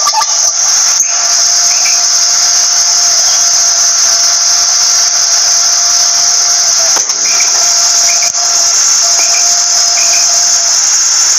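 A steady, shrill insect drone like a cricket chorus, with a thin steady hum underneath and a few brief faint chirps.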